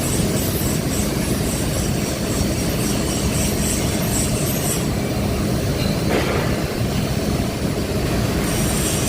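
Electric welding arc running with a steady crackling hiss; the sharper high crackle drops out about five seconds in and comes back near the end.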